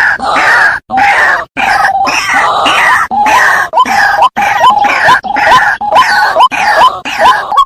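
Water hen calling loudly over and over. From about three seconds in, the notes come two to three a second, each ending in a quick upward hook.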